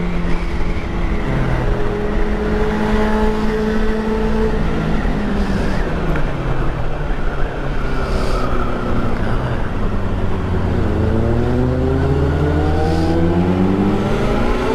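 Motorcycle engine running under way with road and wind noise; its pitch eases down through the middle, then rises steadily from about eleven seconds in as the bike accelerates.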